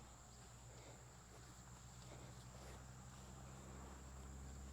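Faint, steady, high-pitched chirring of crickets over a low, steady rumble.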